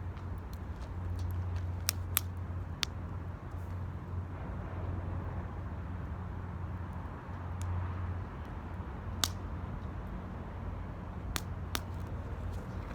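Wood fire burning in an 18-litre square steel can, crackling with sharp pops now and then over a low steady rumble.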